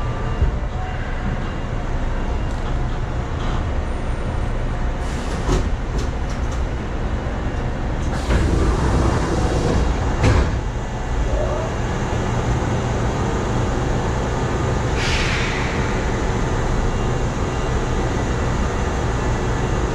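Kintetsu 7000-series electric train heard from the driver's cab, a steady low rumble, with clicks about five seconds in, a louder stretch with knocks around eight to ten seconds, and a brief hiss about fifteen seconds in.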